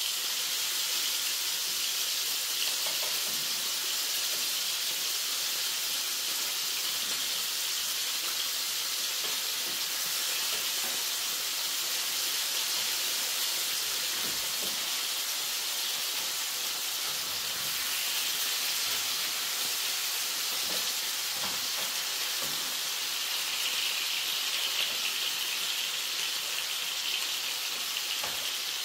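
Minced-lamb kebabs sizzling steadily in a frying pan over a gas flame as they brown, with a few faint clicks of the knife and fork turning them.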